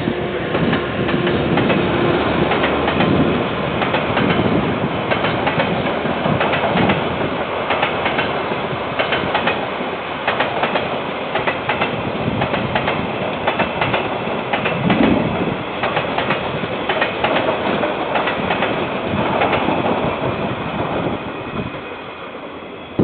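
A KiwiRail train rolling past, its wheels clacking over the rail joints in a continuous stream of sharp clicks over a steady rumble, heard through a security camera's narrow-band microphone.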